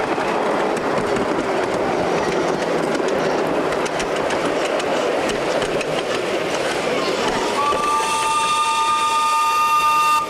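Ride-on 5-inch gauge miniature train running along its track, with wheel clicks over the rail joints. About seven and a half seconds in, the locomotive's whistle sounds: two steady tones held together for nearly three seconds.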